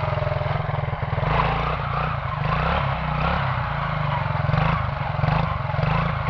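Quad (ATV) engine running, steady at first, then its speed rising and falling from about a second in as it is ridden.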